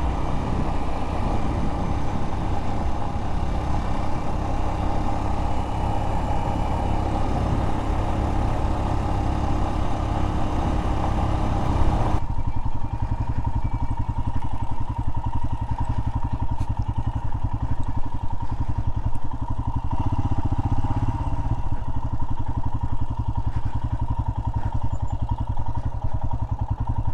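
Royal Enfield Himalayan's single-cylinder engine running steadily under way on a rough mountain road. About twelve seconds in, the rushing hiss over the engine drops away suddenly.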